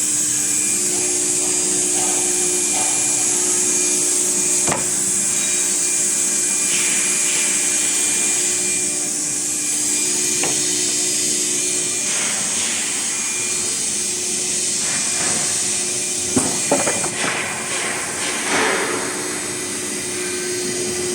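Two-head CNC wood router running: a steady high-pitched hiss and hum from the spindles and dust extraction while the bits cut wood. A few separate knocks come about five seconds in, around ten seconds in, and a cluster of them near sixteen to seventeen seconds.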